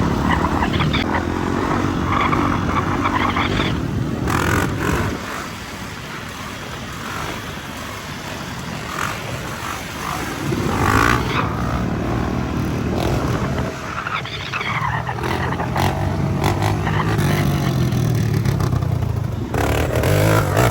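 Dirt bike engines running and revving while riding, the pitch climbing and falling with the throttle several times, easing off for a few seconds in the middle before picking up again.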